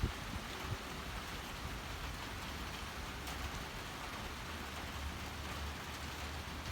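Steady rain falling, with a low rumble of wind underneath.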